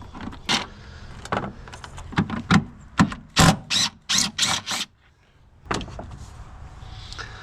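A 5/16 socket wrench working the bolts on the intake section of a Ford V10 engine: a run of short, sharp clicking strokes, quickest and loudest about three to five seconds in, then a brief pause.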